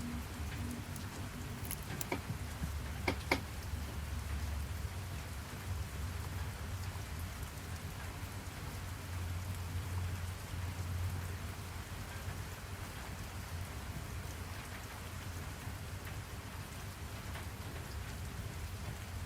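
Steady rain falling, with a low rumble underneath. A few light clicks come about two and three seconds in.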